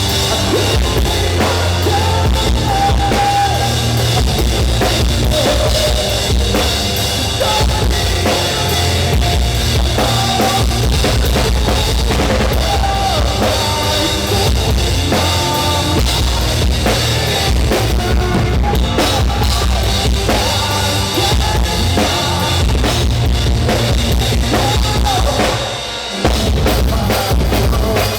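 Loud band music with a full drum kit (bass drum, snare and cymbals) under bass and a moving melody line. The music drops briefly about two seconds before the end, then comes back in.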